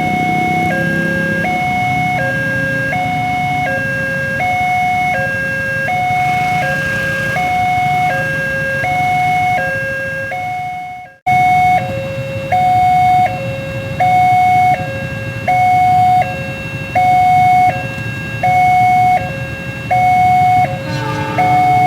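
Railway level-crossing warning alarm: an electronic two-tone signal alternating steadily between a lower and a higher note, a little over a second per pair, over road traffic. It warns that a train is coming and the barriers are closing. It breaks off a little past halfway and comes back louder.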